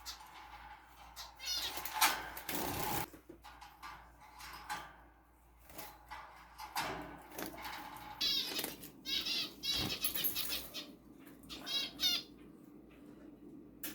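Small caged birds fluttering their wings, then several short bursts of quick, high chirping calls.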